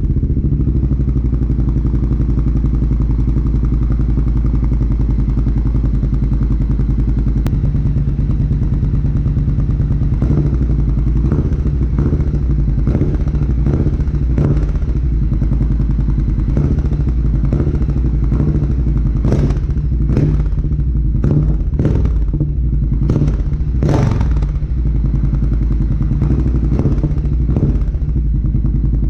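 Triumph Bobber's 1200 cc parallel-twin engine idling through a Delkevic aftermarket exhaust with the baffle fitted, a steady deep exhaust note. Its tone shifts slightly about seven seconds in. From about ten seconds in, a string of sharp knocks comes at irregular intervals over the running engine.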